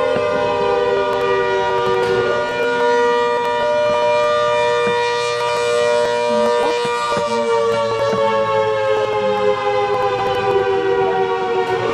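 ACA Hurricane civil defense sirens sounding together in a loud, steady wail of several tones, their pitch slowly falling.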